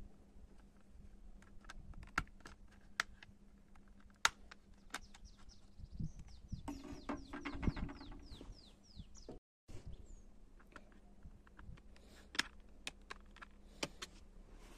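Scattered light clicks and taps, irregular, with a bird chirping a quick series of falling notes about seven seconds in.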